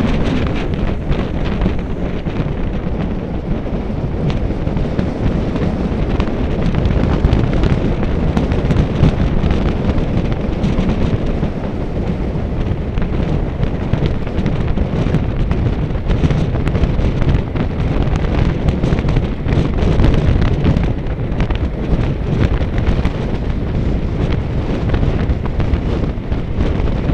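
Wind buffeting the microphone: a loud, steady low rumble with no letup.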